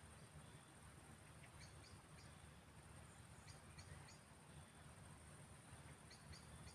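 Faint evening field ambience: a steady high-pitched insect drone over a low rumble. A small bird calls three times, each call a quick group of two or three high chirps, about two seconds apart.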